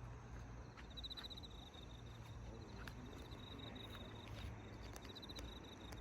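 Faint, high-pitched insect trilling that pulses in runs broken by short pauses.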